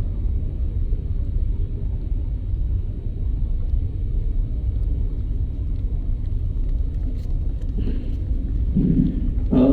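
Steady low outdoor rumble with no distinct events, the loudest energy at the bottom of the range.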